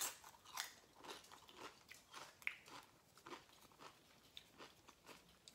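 Faint, close-up crunching and chewing of a salsa-dipped tortilla chip: irregular crisp crunches, coming thicker in the first few seconds and then thinning out.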